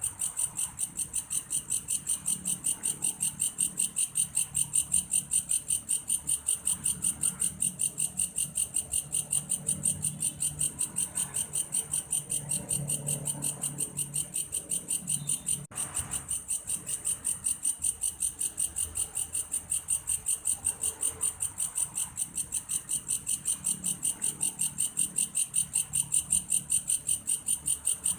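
An insect the uploader calls a belalang kayu, singing a steady, cricket-like chirping song: a shrill, fast-pulsed trill that repeats about three times a second without let-up. There is a brief break a little past halfway, and a faint low hum underneath.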